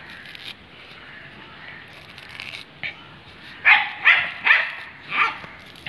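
A dog barking four times in quick succession, the barks roughly half a second apart.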